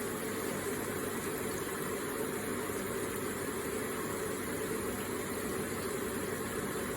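Electric water feature with water running steadily in an even, unbroken rush.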